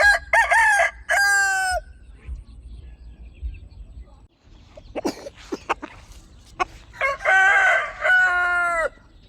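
Rooster crowing twice, a full cock-a-doodle-doo at the start and another about seven seconds in, with a few short calls from the flock in between.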